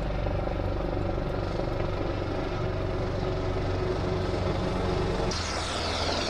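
A motor engine running steadily. About five seconds in the sound shifts and a higher rushing sweep joins it.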